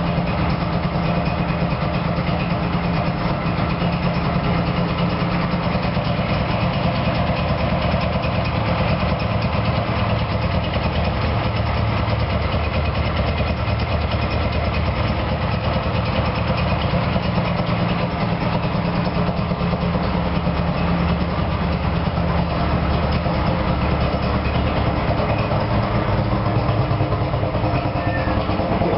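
Puma GT DKW's three-cylinder two-stroke DKW-Vemag engine idling steadily, freshly rebuilt and running again after a long restoration.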